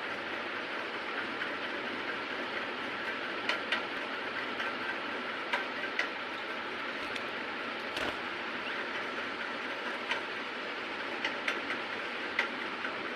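Budgerigars giving scattered short chirps and clicks, about eight in all, over a steady hiss.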